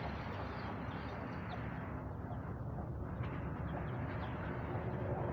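Faint short bird chirps over a steady low background hum.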